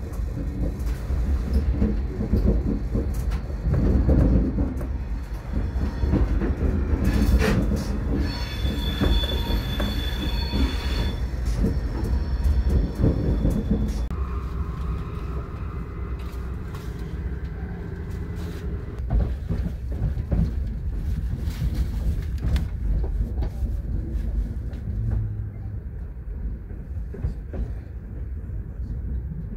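Passenger train heard from inside the carriage as it rolls over station pointwork, a steady low rumble of wheels on rails. About eight seconds in, the wheels squeal in high steady tones for a few seconds. About halfway through, the rumble drops to a smoother, quieter running sound.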